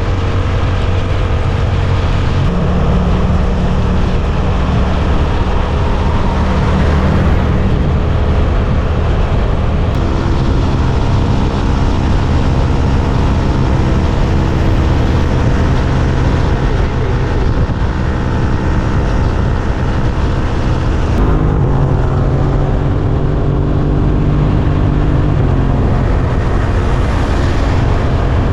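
Suzuki GSX-8S parallel-twin engine running under way, heard on board, mixed with wind rush. The engine note shifts pitch a few times: about two seconds in, about ten seconds in and about twenty-one seconds in.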